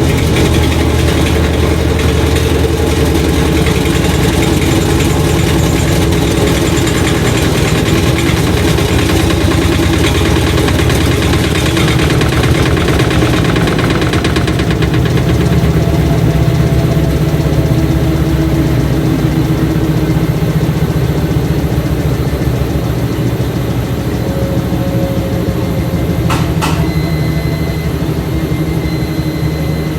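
Washing machine running loudly, a steady mechanical hum with a fast rattling rhythm. The high rushing part fades about halfway through, and near the end there is one sharp click followed by a faint high tone.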